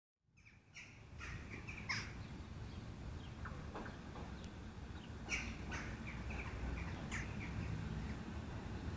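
Birds giving short, sharp calls in a few groups, about one to two seconds in, again around five and seven seconds, over a low steady rumble.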